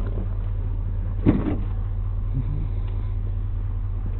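Vehicle engine idling, heard as a steady low hum with an even pulse. There is one short, louder sound about a second in.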